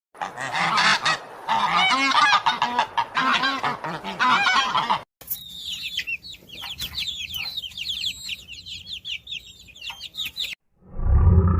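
A flock of large waterfowl honking, many calls overlapping. About five seconds in it cuts to a different recording of rapid, repeated high-pitched calls that fall in pitch, mixed with clicks.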